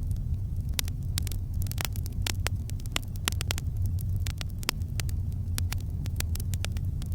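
Campfire crackling: irregular sharp pops and snaps from the burning wood, several a second, over a steady low rumble from the fire.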